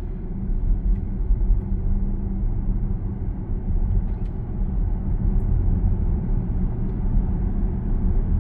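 Steady road and tyre rumble heard from inside the cabin of a Zeekr 7X electric car driving along, with no engine sound.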